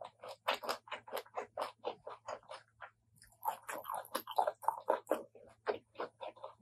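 Close-miked chewing of a mouthful of spicy Thai apple snail salad with raw vegetables, crunching several times a second, with a short pause about three seconds in.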